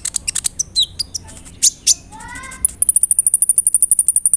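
Kolibri ninja (konin) sunbird singing: a quick run of sharp, high chirps, then a few lower descending notes about two seconds in. It ends with a fast, even, very high trill of about a dozen pulses a second for the last second and a half.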